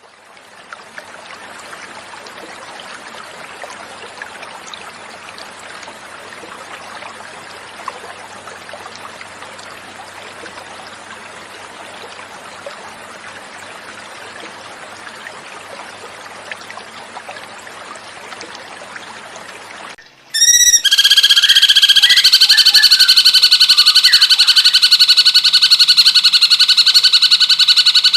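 Flowing water trickling steadily for about twenty seconds, then loud cucak cungkok song cuts in suddenly: a fast, unbroken run of high, repeated notes.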